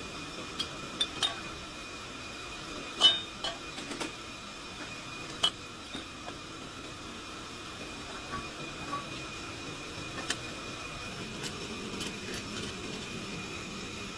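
Scattered metallic clinks and taps of tools and parts being handled, with one louder knock about three seconds in, over a steady background hum.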